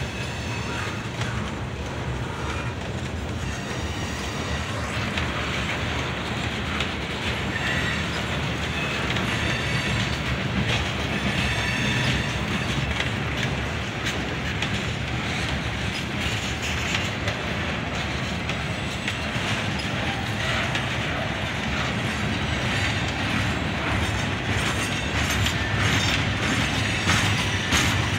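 Freight train of Herzog ballast hopper cars rolling past: a steady rumble of steel wheels on rail with rhythmic clicking over the rail joints and short, faint high wheel squeals. The clicking grows busier and a little louder near the end.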